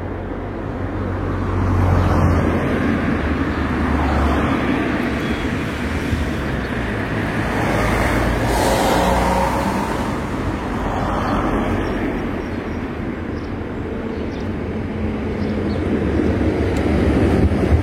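Light-rail tram running, a steady rumble of wheels and motors that swells a little near the end.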